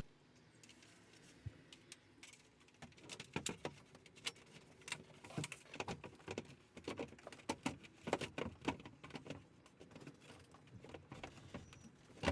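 Irregular light clicks and taps of plastic and metal parts being handled while an RV roof vent fan assembly is worked on. They begin a couple of seconds in and come in quick clusters.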